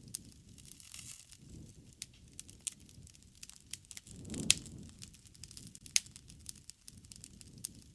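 Wood fire burning: irregular sharp crackles and pops over a low rush of flame, with a louder pop about halfway through and another a second and a half later.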